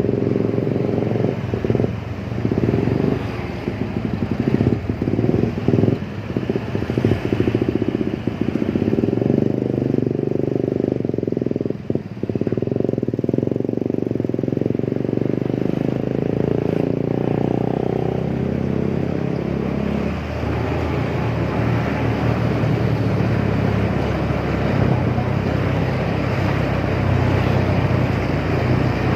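Motorcycle engine running while the bike is ridden, with a few brief dips in level in the first half.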